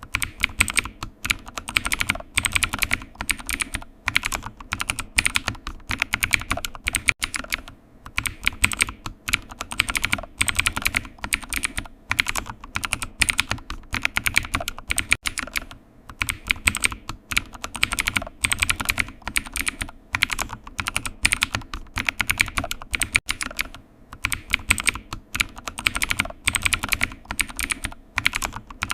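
Computer keyboard typing: a rapid, continuous run of key clicks with brief pauses now and then.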